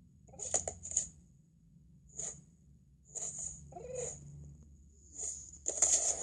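Cartoon cat sound effects: a string of about seven short cat vocal noises, one with a bending pitch, the loudest near the end.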